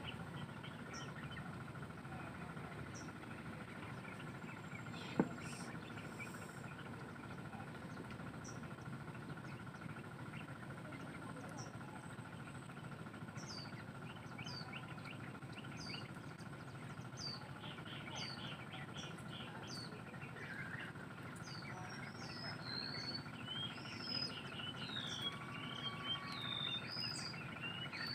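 Birds chirping: short, high, falling chirps about once a second, joined in the second half by denser, more varied chirping, over a steady high drone. A single sharp click about five seconds in.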